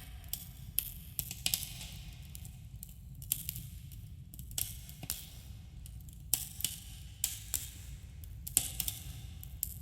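Campfire burning, the wood crackling and popping in irregular sharp snaps over a steady low rumble.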